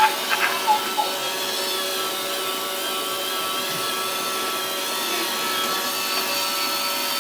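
Roomba robot vacuum running: a steady motor whine made of several constant tones, with a few sharp clicks in the first second.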